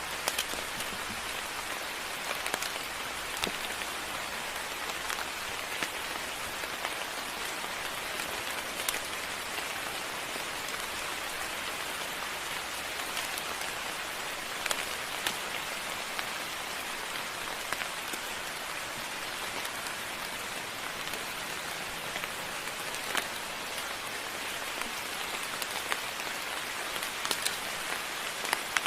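Moderate rain falling steadily as an even hiss, with scattered sharper drops striking close by every few seconds.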